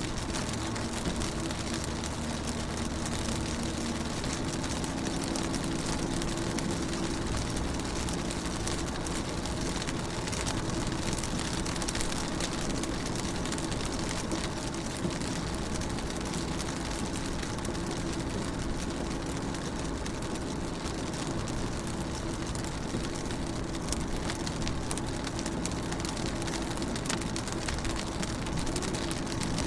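Steady rain falling on a car's windows and body, an even hiss with faint scattered drop ticks, over a steady low hum.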